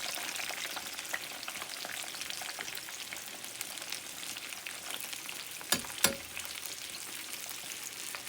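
Chicken breast pieces in a crushed pork-rind coating frying in hot oil in a pan: a steady crackling sizzle full of small pops. Two sharp clicks stand out a little after halfway, the loudest sounds.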